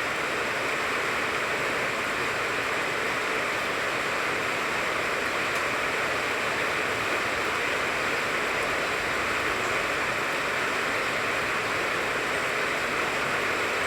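Steady rain falling on a mandarin orange tree, an even, unbroken hiss of water.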